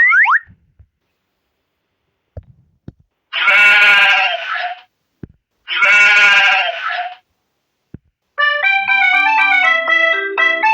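Two long, wavering bleats from a goat or sheep, each about a second and a half, in a break in keyboard music; the music cuts off with a quick rising sweep at the start and returns with a bouncy keyboard melody near the end.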